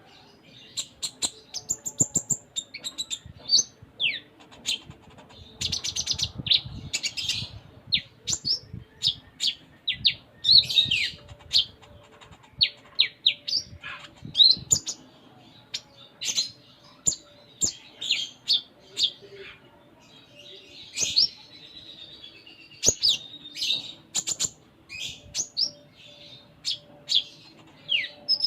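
Kolibri ninja (konin) sunbird singing energetically: a fast, unbroken run of high chirps, twitters and quick downward-slurred notes, packed with mixed phrases (a 'full isian' song).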